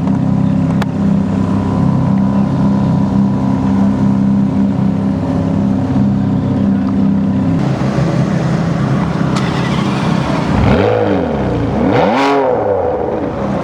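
Ferrari sports car engine idling with a steady, throbbing note, then revved twice near the end, its pitch climbing and falling back each time.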